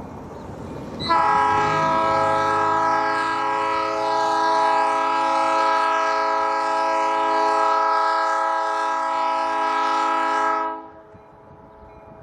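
High-hood diesel locomotive's multi-chime air horn sounding one long, loud blast of nearly ten seconds, starting about a second in and cutting off sharply. A low rumble comes before it.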